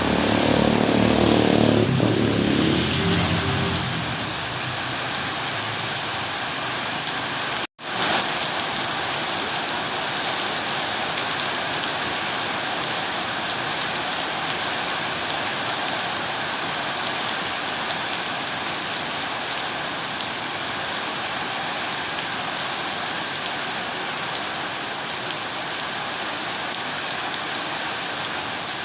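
Steady rain falling, an even hiss. A louder low rumble in the first few seconds fades out, and the sound drops out for an instant about eight seconds in.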